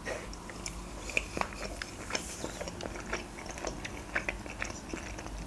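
A bite into a KFC Boxmaster grilled tortilla wrap, then close-miked chewing: many small, irregular wet clicks and crackles from the mouth.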